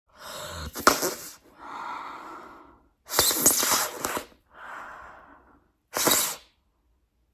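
Bubblegum being blown into bubbles and sucked back in to pop: five breathy bursts of blowing and sucking air through the gum, with sharp snaps about a second in and again around three seconds.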